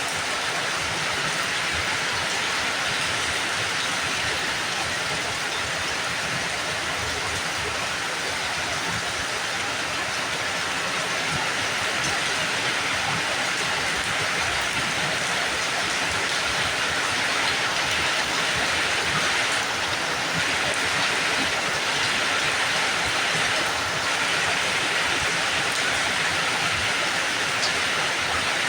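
Steady heavy rain falling, an even hiss with a fine patter of drops on surfaces.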